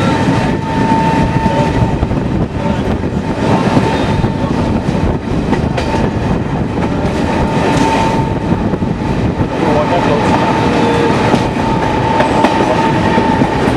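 Running noise of an Indian Railways passenger train heard from inside the coach: a loud, steady rumble with the wheels clacking over rail joints and a steady high tone running through much of it.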